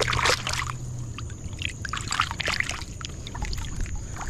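Small, irregular water splashes and drips, with clicks from handling, as a freshly caught, slippery white bass is held at the water's edge. A low steady hum runs under the first second.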